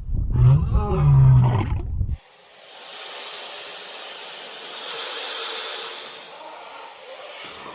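A loud, deep animal call lasting about two seconds, which cuts off abruptly, followed by a steady hiss.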